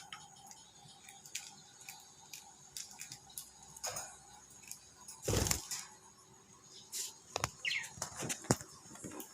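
Pet lovebirds moving about: scattered light clicks and scratches, a short loud flutter of wings about five seconds in, and a brief chirp near the end.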